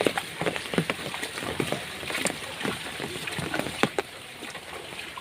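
Rain falling, with heavy drops pattering and splashing irregularly onto standing floodwater and nearby surfaces; it eases a little after about four seconds.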